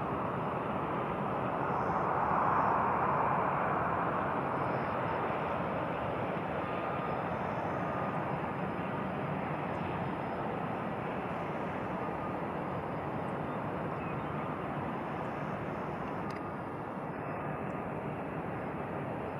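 Jet aircraft engine noise, steady, swelling for a couple of seconds near the start and then holding.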